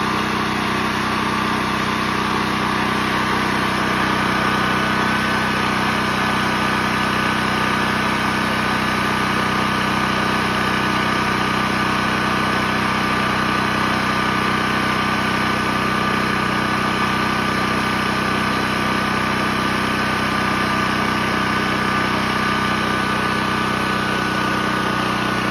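Portable gasoline generator engine running steadily at constant speed, an even hum with a fixed pitch.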